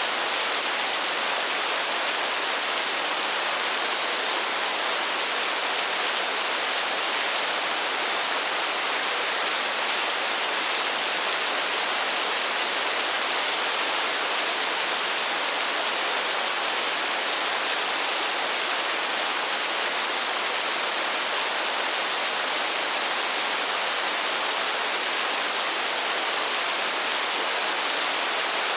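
Steady rainfall: an even, unbroken hiss with no single drops or gusts standing out.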